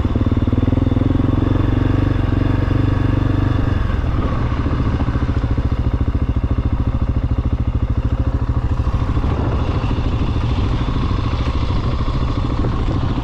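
690 cc single-cylinder dual-sport motorcycle engine running on the move. The engine note climbs slightly for about four seconds, then drops as the throttle is eased, and it runs on at lower revs with its firing pulses distinct.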